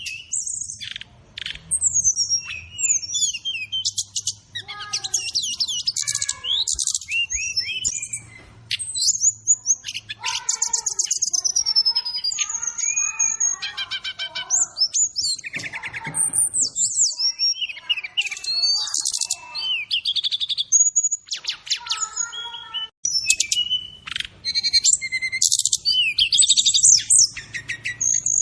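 Brown-chested jungle flycatcher (sikatan rimba dada coklat) singing a continuous, varied song of rapid whistles, trills and chattering phrases that jump in pitch.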